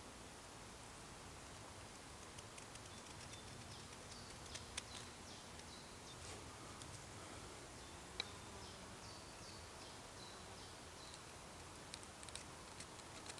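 Faint woodland ambience in which a small bird gives a run of short, high chirps, repeated every half second or so through the middle, with a few sharp clicks, two of them standing out, and light ticks near the end.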